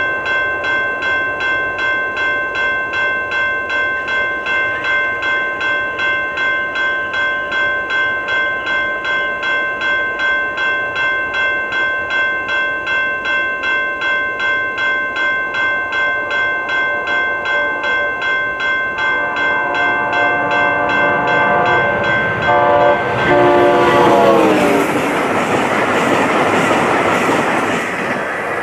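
Railway level-crossing bell ringing in a steady rhythm as the signals flash. About two-thirds of the way in, an approaching VIA Rail Siemens Charger trainset sounds its multi-note horn in two blasts, the second dropping in pitch as it reaches the crossing, and the train then rushes past at high speed.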